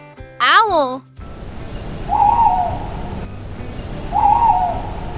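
Owl hooting: two short hoots about two seconds apart, over a steady hiss.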